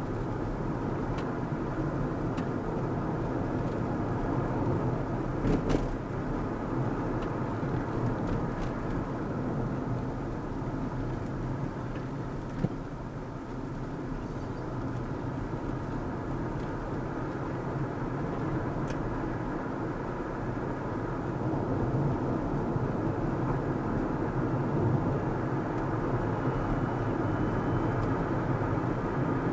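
Steady road and engine noise of a car driving, with a few brief clicks about five seconds in and again around twelve seconds.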